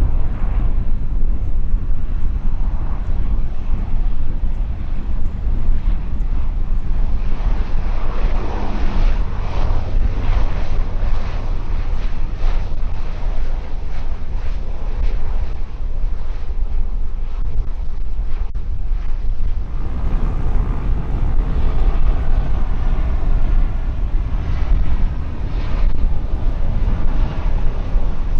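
Airplane engines running, a steady heavy rumble with a hiss over it; the sound changes abruptly about two-thirds of the way through.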